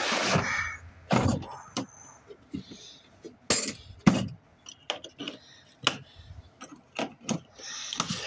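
Tools and hard plastic cases being handled and moved about: a string of irregular clicks, knocks and clatters.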